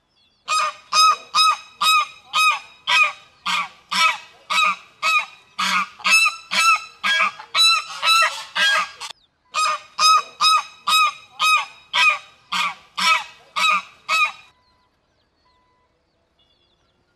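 Domestic waterfowl calling in a rapid series of loud, nasal honks, about two a second, with one short break about halfway through.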